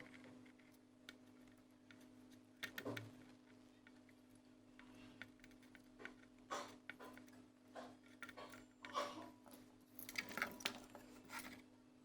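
Faint scattered clicks and light taps over a low steady hum, from soldering work as a new PCIe graphics card slot is fitted to a motherboard.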